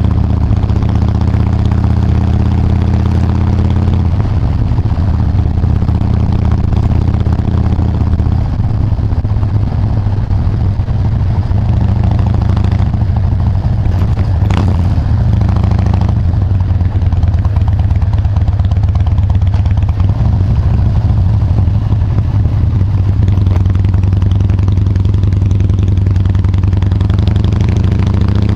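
Harley-Davidson Dyna Wide Glide's V-twin engine and exhaust running loud and steady at low revs, with small changes in engine speed every few seconds.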